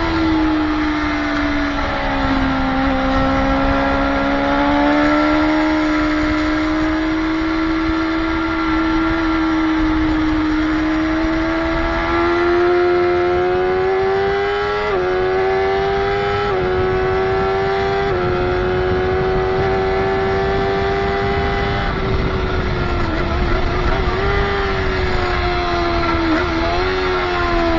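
Motorcycle engine heard on board at track speed, its note rising and falling steadily, with several sudden steps in pitch about halfway through and brief dips near the end.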